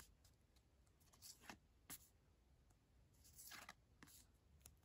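Faint rustle of glossy photocards sliding against one another as they are flipped through by hand: a handful of short swishes, with a longer slide about three and a half seconds in.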